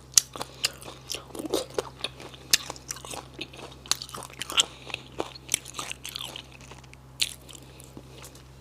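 Close-up eating sounds of a person biting and chewing silkworm pupae: irregular sharp crunches and wet chewing clicks, several a second, over a faint steady low hum.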